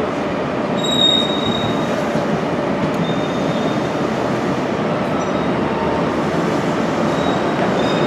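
Passenger train rolling slowly along a station platform: a steady rumble of wheels on rail, with short high-pitched wheel squeals about a second in and again around three seconds in.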